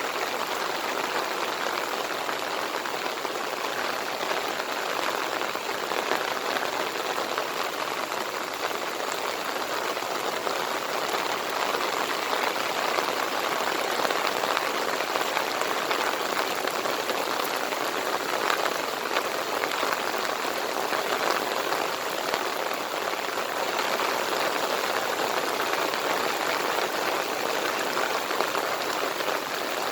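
Steady monsoon rain pouring and pattering on surfaces, a dense even hiss of drops.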